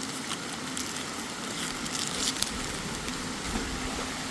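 Steady rushing noise of a waterfall, with a few faint clicks about two seconds in.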